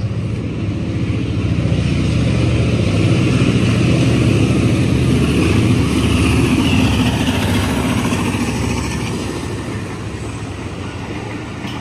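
Pakistan Railways diesel locomotive passing close by, its engine running with a deep rumble that builds over the first few seconds and fades after about eight seconds as the passenger coaches roll past.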